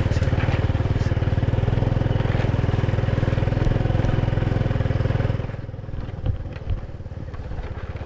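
A small engine running with a steady firing pulse. About five and a half seconds in it drops sharply in level and carries on more quietly, with a few short knocks.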